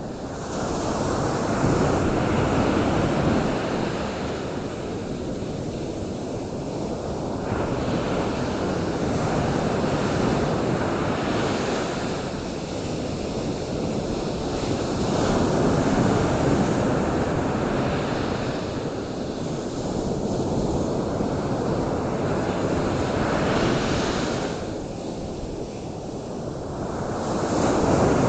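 Ocean waves breaking and washing onto a shore, the surf swelling and easing every six to seven seconds, with some wind.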